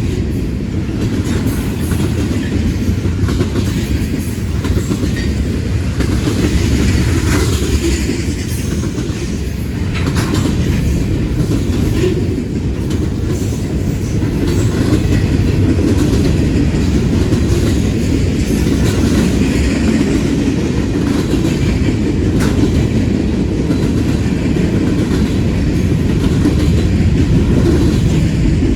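Freight train cars rolling past: a steady low rumble of wheels on rail with clickety-clack and occasional sharp clicks from wheels crossing rail joints.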